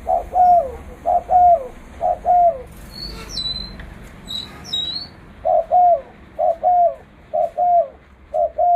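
Spotted dove cooing: loud two-part coos, a short note and a longer falling one, three in a row, then after a pause four more. A few high, thin chirps from a small bird come in the pause.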